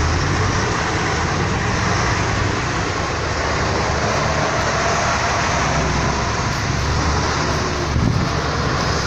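Old truck's engine running steadily, a low hum under a constant rushing noise, with no break or change in speed.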